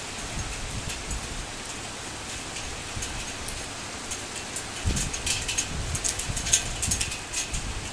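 Torrential rain pouring steadily, with a run of loud, sharp drop strikes close by from about five seconds in.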